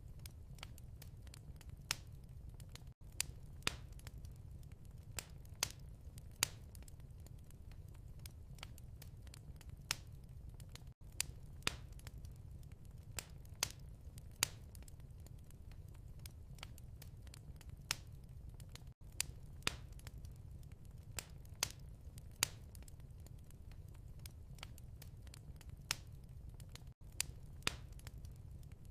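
Fireplace ambience: wood fire crackling, with irregular sharp pops over a steady low rumble. The sound drops out briefly about every eight seconds.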